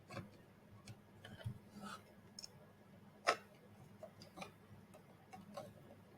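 Screwdriver tightening small screws into robot head parts: faint, irregular light clicks and ticks, with one sharper click about three seconds in.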